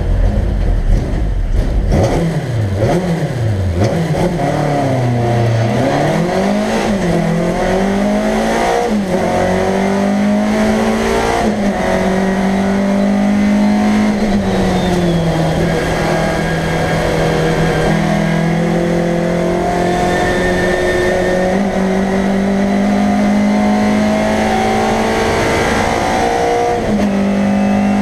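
A Škoda 130 L race car's rear-mounted four-cylinder engine, heard from inside the cabin, revving hard under full acceleration. Its pitch rises and drops with a string of quick gear changes in the first fifteen seconds, then it pulls steadily at high speed with slowly rising revs.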